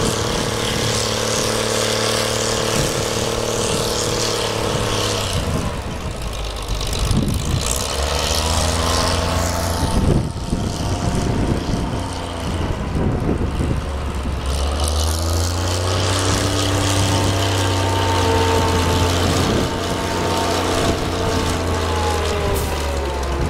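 An engine running steadily, its pitch swelling up and down twice as it is revved.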